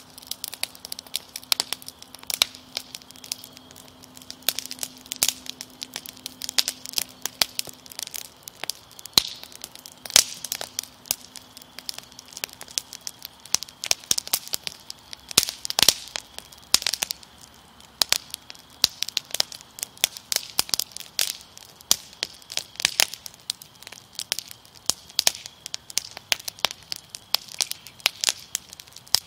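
Fire crackling steadily: irregular sharp pops and snaps, several a second, over a quiet hiss.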